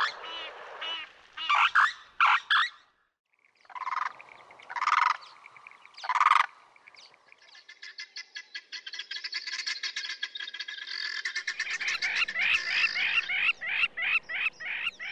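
Wild birds calling: a few short, loud calls in the first half, then a long, fast chattering trill that builds and ends in a run of quick, repeated rising notes.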